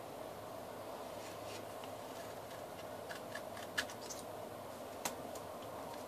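Scissors cutting paper: a few scattered sharp snips, the loudest near the middle and about a second later, over a steady low room hum.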